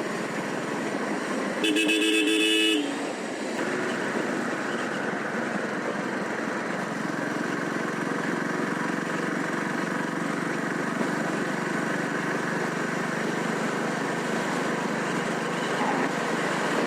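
A vehicle horn sounds once about two seconds in, a steady two-tone blast lasting about a second. Steady wind and road noise from riding a motorcycle runs on after it.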